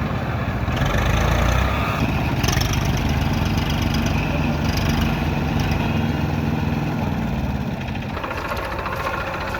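Tractor engine running steadily, louder for a moment about a second in and easing off near the end.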